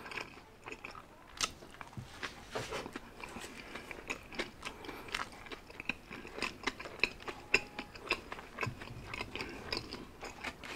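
Close-miked chewing of a mouthful of McDonald's Big Mac burger: many soft, irregular mouth clicks and crunches.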